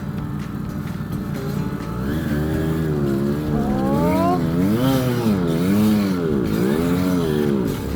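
A 50cc two-stroke Kreidler Florett motorcycle engine revving as the bike wades into a deep river crossing. From about two seconds in, the engine note swings up and down about once a second as the water loads it.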